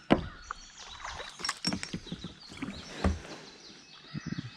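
Irregular knocks and clicks of fishing gear and a just-landed channel catfish being handled in a kayak. There is a sharp knock right at the start and a duller thump about three seconds in.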